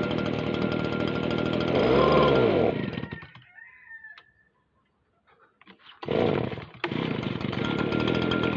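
Stihl BG56 leaf blower's small two-stroke engine running, revving up and back down about two seconds in. It stops about three seconds in, a few seconds of near silence follow, then it starts again about six seconds in and runs steadily. It does not hold idle.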